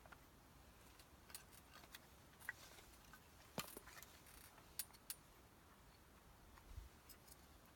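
A cheap 100-yen-shop knife working at wood: faint, scattered clicks and short scrapes, the sharpest click about three and a half seconds in.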